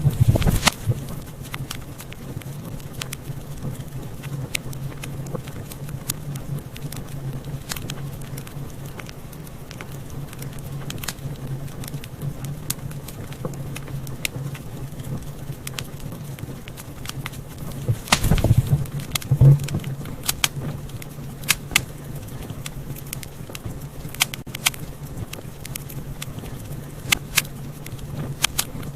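Wood fire in a fireplace crackling, with irregular sharp pops and snaps over a steady low hum. A burst of louder pops comes about eighteen seconds in.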